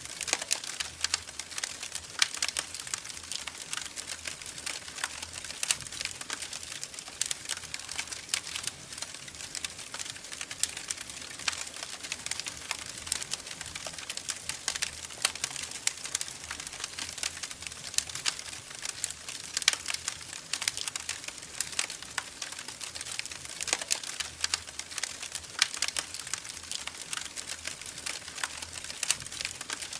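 Wood fire in a fireplace crackling, with dense irregular pops and snaps over a soft hiss.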